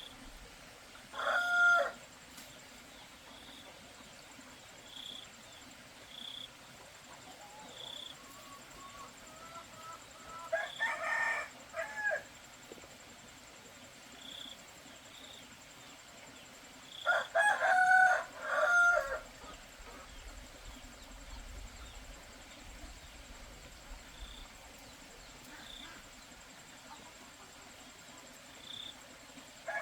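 Roosters crowing three times, each crow lasting one to two seconds, with clucking. Faint short high chirps come in between the crows.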